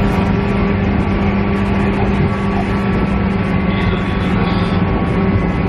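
KiHa E130 diesel railcar heard from inside the cabin: a steady diesel engine drone with a strong low hum, over a constant rumble of the running gear.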